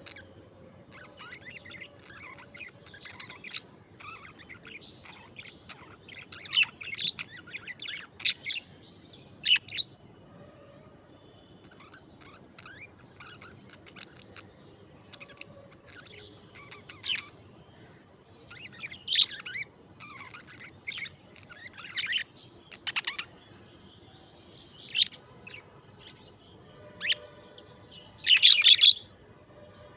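Pet budgerigars chattering and warbling, a string of short, irregular chirps and squeaks, with a louder burst of chatter near the end.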